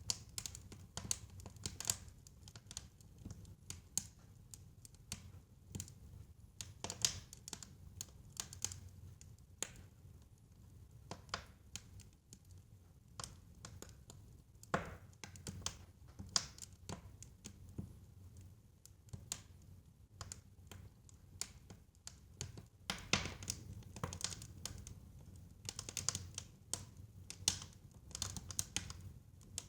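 Wood fire crackling in a fireplace: irregular sharp pops and snaps over a low, steady rumble of the flames, the pops coming thicker near the end.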